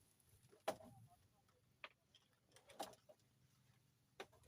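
Near silence, broken by four faint, sharp clicks or taps spread about a second apart.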